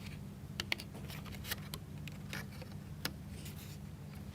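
Faint, irregular small clicks and light taps from hands handling the wooden model car's parts while refitting a slipped rubber band, over a steady low hum.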